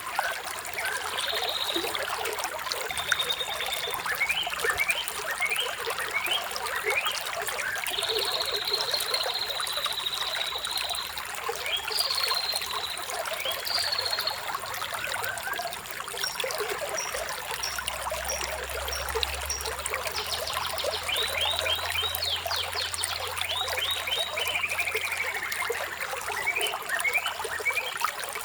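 Water trickling steadily, with songbirds chirping over it in quick runs of short chirps, some held high whistled notes, and a falling trill late on.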